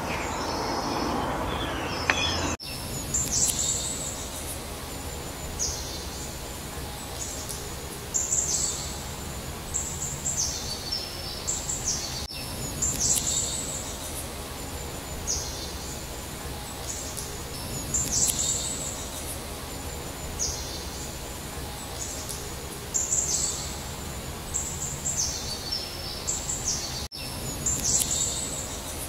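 Songbirds chirping and singing in short, high phrases every few seconds over a faint low hum. A duller stretch of noise at the start cuts off abruptly about two and a half seconds in.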